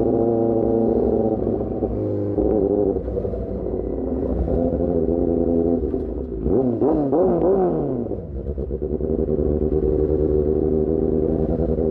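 Superbike engine running through an Austin Racing GP1R exhaust at steady revs while riding. About halfway through, the revs rise and fall three times in quick succession, then settle back to a steady drone.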